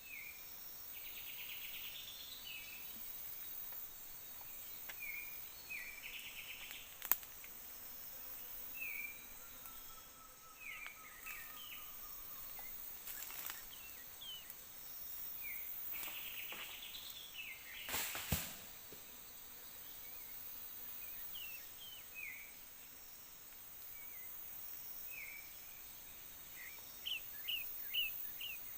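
Forest birds giving short, high chirps again and again, with a quick run of chirps near the end, over a steady high insect hiss. Two sharp clicks, the second one loud, come about a quarter and two-thirds of the way through.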